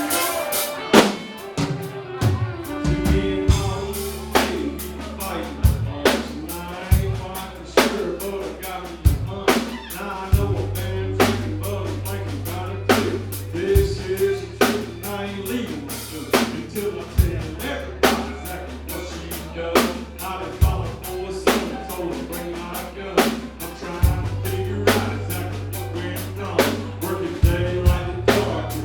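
Band music with a drum kit keeping a steady beat, a strike about every second, over a bass guitar holding long low notes that change every few seconds, with other instruments in the middle range.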